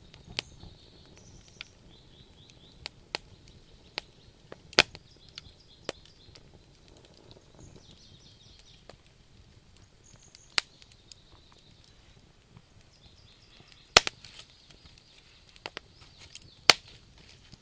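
Wood campfire crackling: irregular sharp snaps and pops from the burning logs over a soft hiss, with three louder pops, one about five seconds in, one around fourteen seconds and one near the end. Faint high chirping comes and goes in the background.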